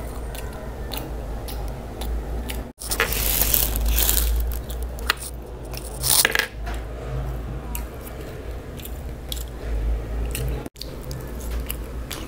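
Close-miked chewing and crunching of French fries: irregular crisp clicks and wet mouth sounds, loudest about three and six seconds in. The sound cuts out abruptly twice, for an instant each time.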